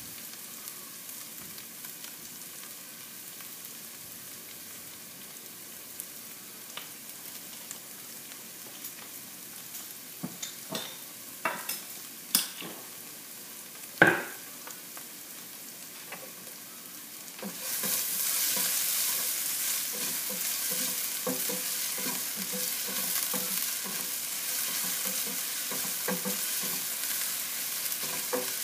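Julienned ginger sizzling in oil in a nonstick frying pan, with a few sharp clicks and knocks a little before the middle as sugar is sprinkled over it to caramelize. From about two-thirds of the way through the sizzle turns much louder and a spatula stirs the ginger with irregular light knocks against the pan.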